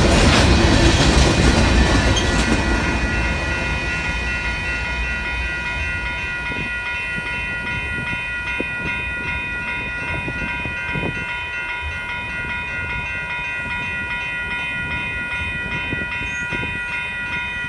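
The tail end of a freight train of covered hopper cars rolls past with a wheel rumble and clatter that fades over the first few seconds. A railroad crossing bell rings steadily on and stops right at the end as the gates rise.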